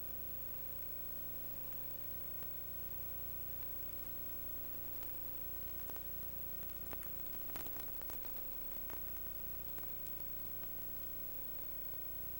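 Steady hum and hiss, with a few faint clicks about seven to eight seconds in.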